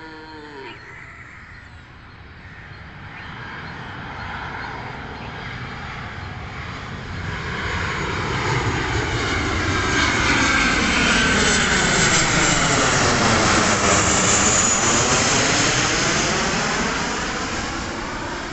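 Jet airliner on landing approach flying past overhead. Its engine noise builds steadily over several seconds, peaks about two-thirds of the way in with a sweeping, phasing whoosh as it passes, then starts to fade.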